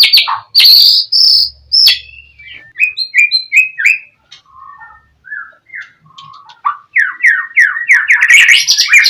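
A songbird singing a varied song: a loud burst of fast chirps at the start, then softer separate whistled notes, and from about seven seconds in a loud rapid run of repeated falling notes.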